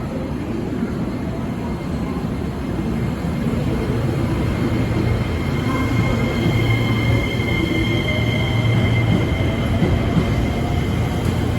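A 12-car JR West 225 series and 223 series electric train running along the track with a steady rumble that grows gradually louder. Thin high squealing tones are held through the middle, and a low whine starts rising near the end.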